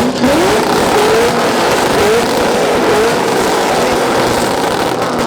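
Two cars' exhausts revved together, loud: the revs climb steeply in the first second, then are held high and wavering for several seconds before letting off near the end.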